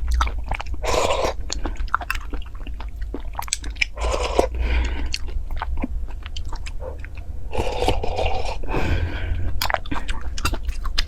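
A person eating on a close microphone: chewing with many wet mouth clicks and some crunching, plus a few longer, noisier mouthfuls about a second in, around four to five seconds and near eight seconds.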